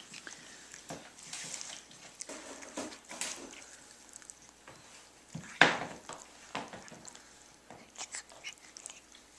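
Cat chewing grass: irregular short crunches and clicks, with one louder sharp knock about five and a half seconds in.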